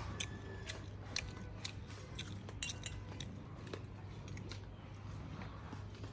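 Close-up chewing of fried bullfrog: wet mouth sounds with many sharp, crisp clicks through the first three seconds, thinning out afterwards.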